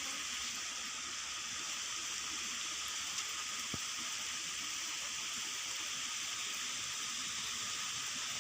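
Steady hiss of falling rain, with a single sharp click about four seconds in.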